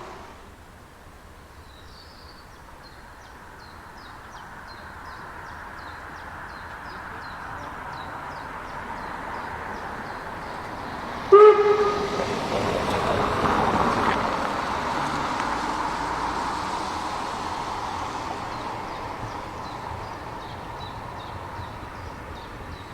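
A Harz narrow-gauge train approaching and growing louder, sounding one short blast of its whistle about halfway through, then running past and fading away.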